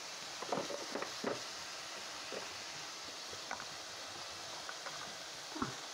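Onion-and-spice masala frying in oil in a pan, a low steady sizzle, with a few short scraping strokes of the stirring spoon.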